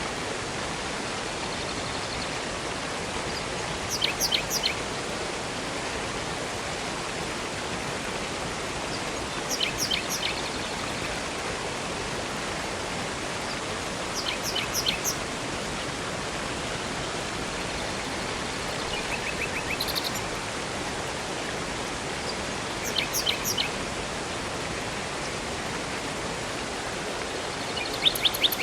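Steady rush of flowing water, with a small bird chirping in short bursts of quick, high notes about every five seconds.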